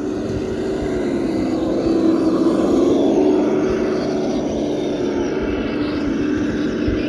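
Kyosho Blizzard RC tracked snowcat's electric motors and gear drive whining steadily, the pitch rising a little and getting louder about two to three seconds in, then easing. Wind buffeting the microphone runs underneath.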